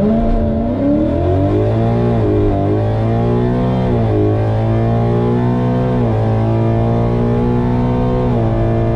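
Ford Mustang GT's 5.0-litre V8 with a full aftermarket exhaust accelerating hard down a drag strip. Its pitch climbs and then drops sharply at each quick upshift of the 10-speed automatic, about four shifts in all.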